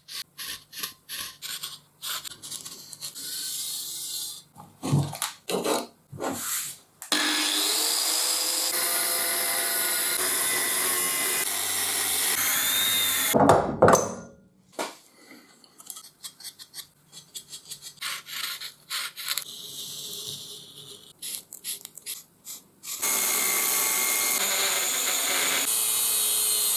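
Metalworking on a length of steel railway rail: a power tool runs steadily on the steel in two long stretches, with intermittent scraping strokes and knocks between them and a couple of loud hits near the middle.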